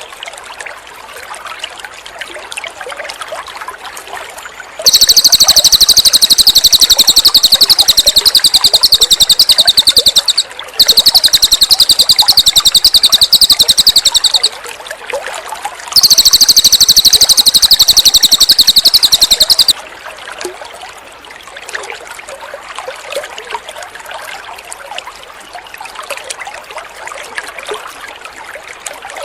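A cililin songbird singing three long bouts of very rapid, high-pitched trilling song, a few seconds each, the first starting about five seconds in. Water trickles steadily beneath the song and alone in the gaps.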